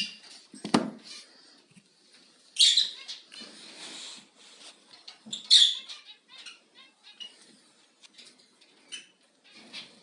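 Scratchy, crackling distorted audio with irregular clicks and louder squeaky bursts about a third and halfway through, and a low thump just under a second in. It is the sound fault of a Xiaomi Redmi Note 4 smartphone.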